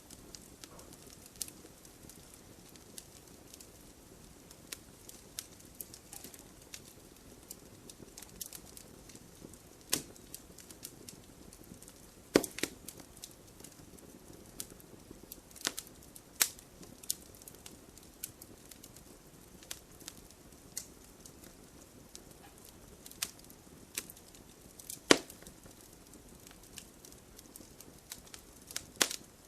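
Wood fire burning in an open fireplace, crackling: irregular sharp pops and snaps over a low steady hiss, with the loudest pops about twelve and twenty-five seconds in.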